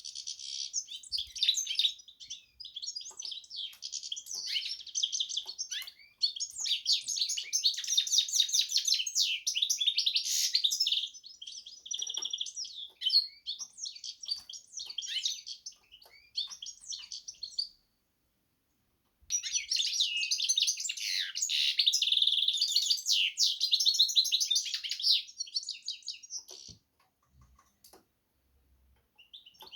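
A Carduelis × canary hybrid (finch mule) singing long, fast, trilling song phrases, high-pitched, with a short pause about two-thirds of the way through and the song dying away near the end.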